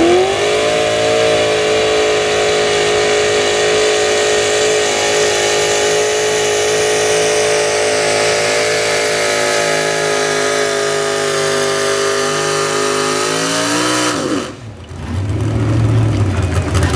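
Super stock two-wheel-drive pulling truck's engine at full throttle and high revs, under load pulling a sled, holding one steady high pitch. About fourteen seconds in, the revs fall sharply and the sound briefly dips as the throttle comes off, then a lower, rougher engine rumble follows.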